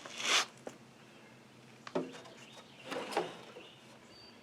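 Scattered light knocks and scrapes of hand tools being handled, starting with a short swish, with sharp clicks about two and three seconds in. A bird chirps briefly near the end.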